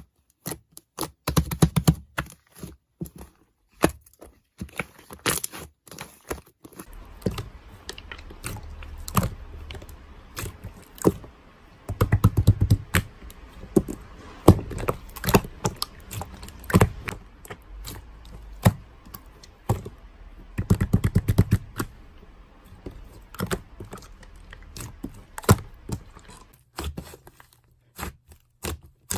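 Irregular clicks, taps and scrapes of small objects being handled, with a few quick flurries of tapping.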